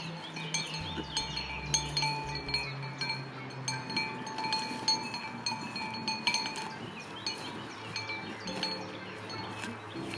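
Small metal bells chiming and clinking irregularly, with sustained ringing tones between the clinks.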